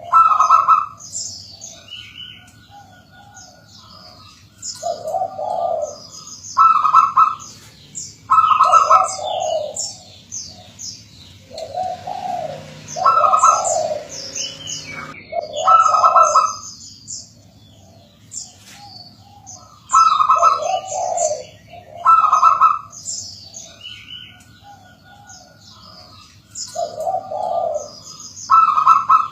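Zebra dove (perkutut) cooing: short groups of low, rolling coo notes every few seconds, with small birds chirping high and thin over it.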